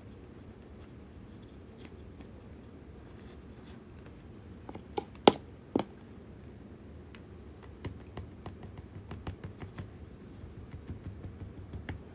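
Kitchen handling sounds: three sharp clicks or taps about five seconds in, then a run of light ticks and taps through the second half.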